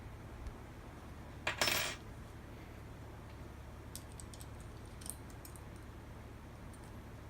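A short metallic clatter of a small metal part or tool set down, about a second and a half in, followed by a few light clicks and taps of metal parts being handled.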